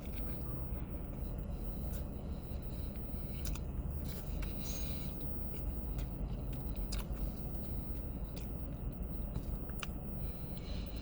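A person chewing and biting into a soft turkey sandwich, with scattered short wet clicks from the mouth, over a steady low rumble.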